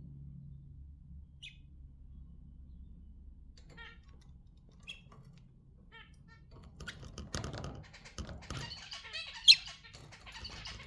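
Pet budgerigars chirping in their cage: a few scattered single chirps, then from about two-thirds of the way in a busier stretch of chatter mixed with clicks. One sharp, loud squawk comes about nine and a half seconds in.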